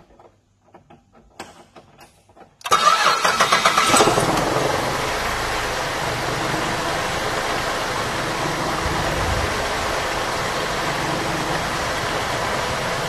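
A 2006 Holden VZ Commodore's 3.6-litre Alloytec V6 starting: after a few faint clicks it cranks briefly, catches and flares up, then settles about two seconds later into a steady idle that does not sound too bad. The engine is misfiring on cylinders 1, 3 and 5, which are getting no spark.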